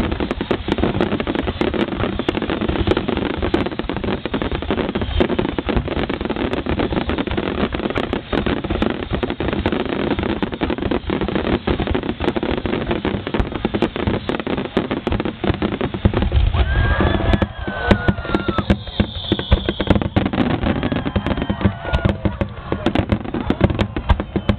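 Fireworks display in a dense barrage: many shells bursting close together, a continuous run of bangs and crackling. About two-thirds of the way through, a heavier low rumble swells for a few seconds.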